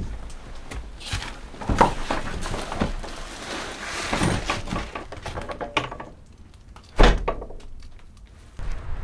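A series of knocks and clattering thuds, with one sharp, loud thud about seven seconds in.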